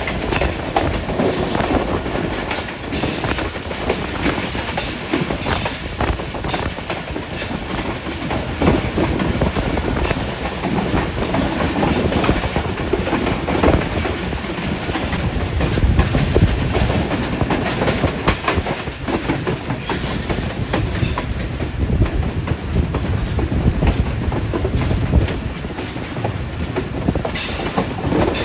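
Hazara Express passenger train running along the track: a steady rumble of wheels on rails with scattered clicks over the rail joints, and a steady high wheel squeal lasting a couple of seconds about two-thirds of the way through.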